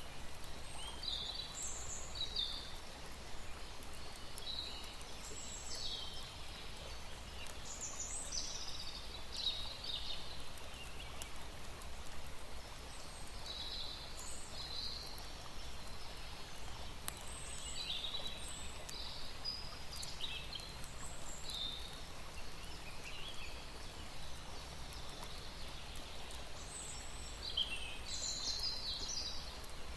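Small birds chirping in short, high calls scattered throughout, thickest near the end, over a steady low background hum.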